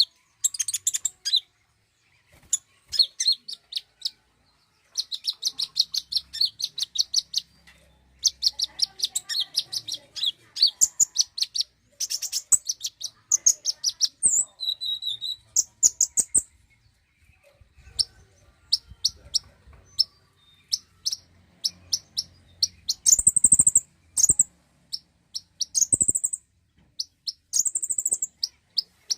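Konin sunbird song: rapid trains of short, high chirps and trills in bursts a few seconds long, separated by brief pauses.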